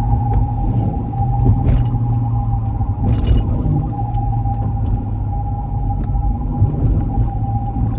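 Dodge Charger driving, heard from inside the cabin: a steady low rumble of engine and road, with a steady high-pitched whine over it.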